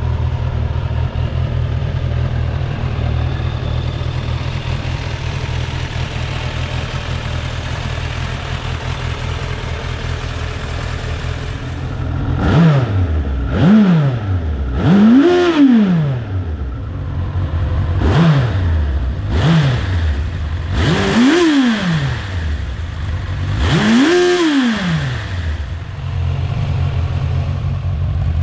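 Suzuki GSF 1200 Bandit S inline-four engine and exhaust idling steadily, then revved with seven throttle blips starting about twelve seconds in, each rising and falling in pitch, the third and last held a little longer, before settling back to idle.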